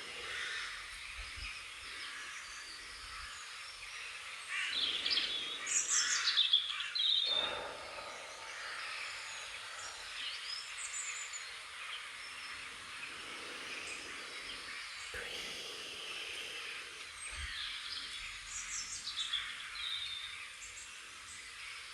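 Songbirds singing over a steady background hiss: a phrase of quick, falling whistled notes about five seconds in, the loudest moment, and another similar phrase near the end, with softer chirps in between.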